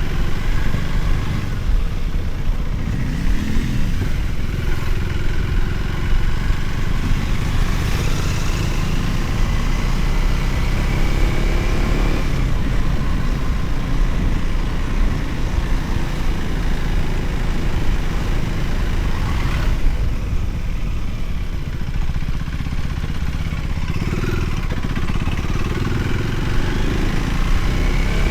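Motorcycle engine running while riding on the road, with a steady low rumble and the engine note rising briefly a few times.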